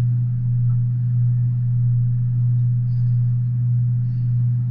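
Steady low hum of a double-stack intermodal freight train rolling past, heard muffled through window glass, pulsing gently in level.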